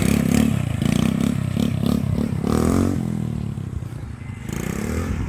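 RC quad bike's small carburetted engine running and being revved in short surges, easing off about three and a half seconds in and picking up again near the end.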